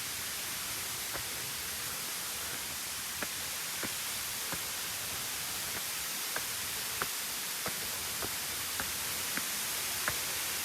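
Steady rushing hiss of a waterfall. From about three seconds in, light footsteps tick over it at an even pace, about one every two-thirds of a second.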